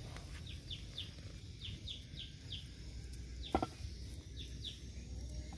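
A bird calling in runs of short, falling chirps, over a steady low rumble. A single sharp knock about three and a half seconds in.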